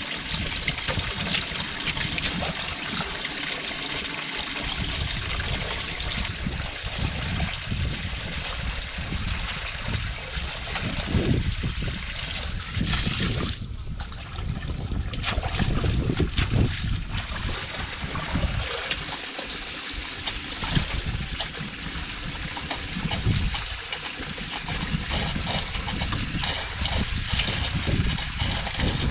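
Water trickling and running steadily, like water draining away along a freshly dug ditch in mud, with irregular low rumbling underneath.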